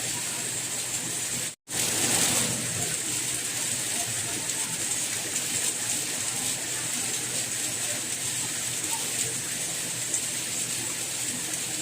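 Steady rain, an even hiss that is strongest in the high range. About a second and a half in it cuts out for an instant, then comes back slightly louder for a moment before settling.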